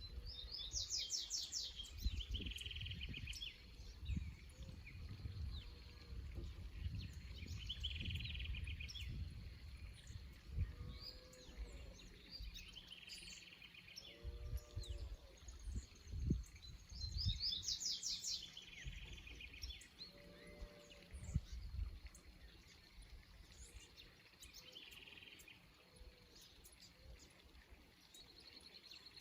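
Songbirds singing: one bird repeats a short song every few seconds, a quick high trill followed by a lower buzzy note. A few lower calls come in near the middle, over a low rumble.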